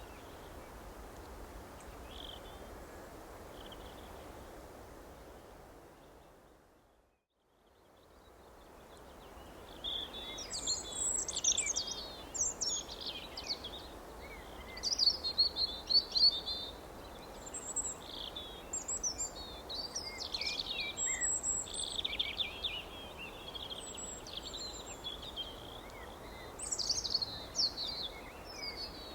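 A steady background hiss fades out to silence about seven seconds in and fades back in; then songbirds chirp and twitter in quick, high notes, several calls overlapping.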